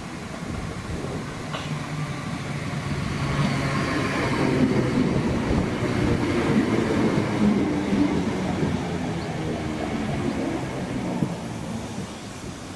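Southeastern electric multiple-unit train running past on the line, growing louder to a peak around the middle and fading away toward the end.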